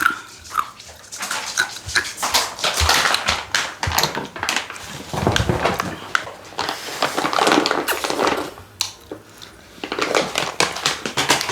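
Crunching and chewing of crispy fried chicken, with short whimpers from a pet dog.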